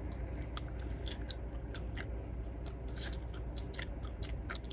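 Chewing gum loudly and obnoxiously with the mouth close by: an irregular run of short smacking clicks, several a second.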